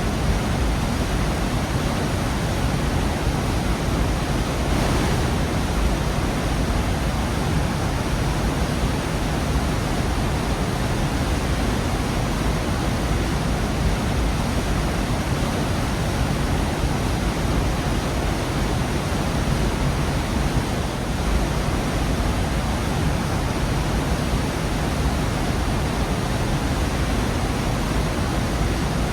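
Waterfall in a gorge: a steady, dense rush of falling water that does not change.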